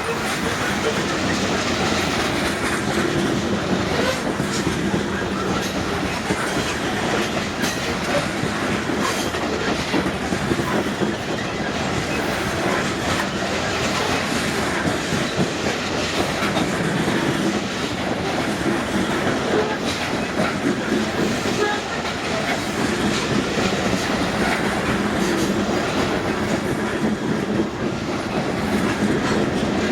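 Loaded freight cars of a long unit train rolling past with a steady clatter, the wheels clicking over the rail joints.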